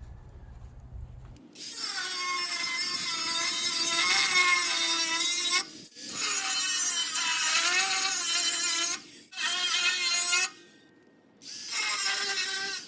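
Handheld electric power tool run in four bursts, the first and second about three to four seconds each, with its motor pitch wavering as it works under load, while dismantling metal farm machinery for scrap.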